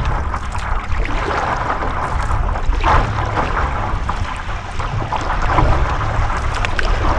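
Wind buffeting the microphone with a heavy low rumble, over water splashing and lapping around a small craft.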